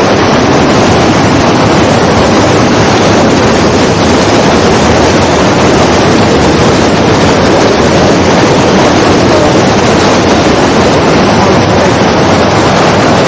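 Loud, steady rush of a waterfall's falling water, unchanging throughout.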